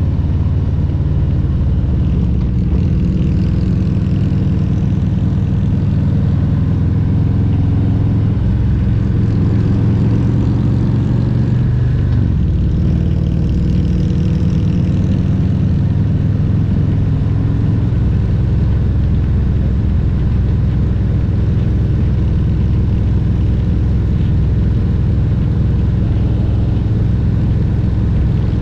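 Harley-Davidson Road Glide Special's Milwaukee-Eight 114 V-twin running at riding speed. The engine note climbs gradually, breaks and drops about twelve seconds in, then holds steady.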